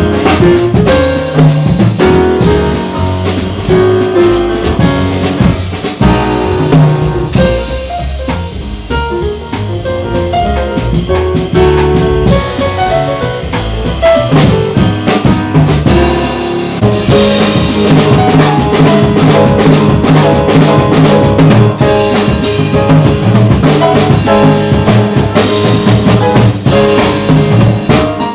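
Jazz piano trio of piano, bass and drum kit playing, with the drums to the fore, including bass drum and rimshots. The music thins out a little partway through and fills back in.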